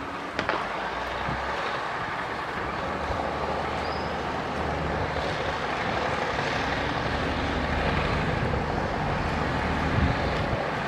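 Heavy diesel earthmoving machinery, a bulldozer and dump trucks, running steadily with a low engine drone that grows a little louder from about halfway through. A sharp clank comes just after the start and a knock near the end.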